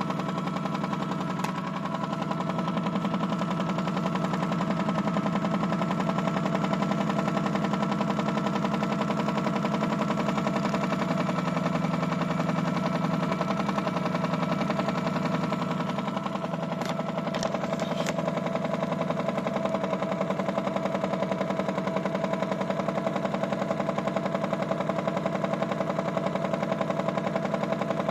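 Toy Miele W1 washing machine running steadily, its small motor giving a fast rattling buzz, with a few light clicks about two-thirds of the way in.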